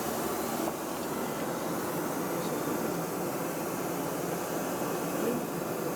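Steady cabin noise inside a Boeing 737-800 airliner: an even rush of engine and airflow noise that holds level throughout.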